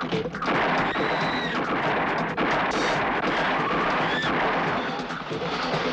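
Loud, continuous action-scene sound effects: a dense noisy din with a few short squeals that bend in pitch.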